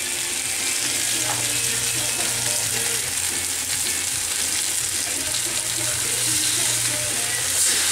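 Beef, spinach and chilli sizzling in a hot wok as they stir-fry, a steady frying hiss with a low steady hum underneath.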